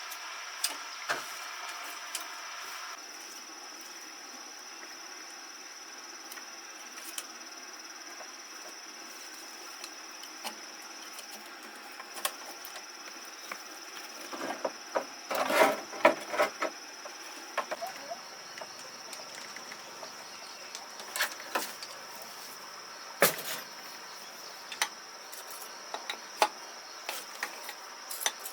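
Scattered knocks and taps, with a dense run of them about halfway through, over a steady high-pitched hum.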